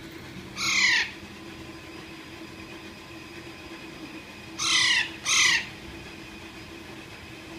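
A young pet parrot giving three harsh, down-sliding squawks: one about half a second in, then two in quick succession about five seconds in.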